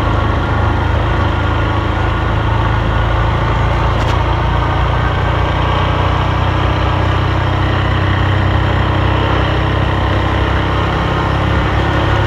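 Honda Super Cub's single-cylinder four-stroke engine running at a steady speed while riding, under a steady rush of wind and road noise.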